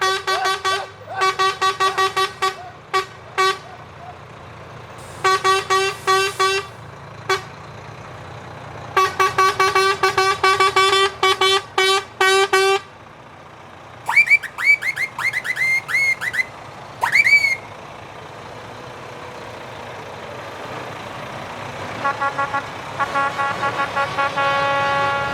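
Truck air horns tooted in rapid strings of short blasts, over the low running of truck engines. About 14 seconds in, a higher-pitched horn with a bending pitch sounds in a series of toots, and a quieter horn sounds again near the end.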